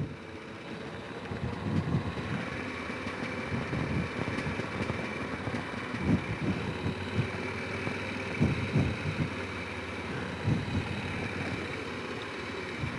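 Honda Rincon 650 ATV's single-cylinder four-stroke engine running steadily at low revs, with irregular low thumps.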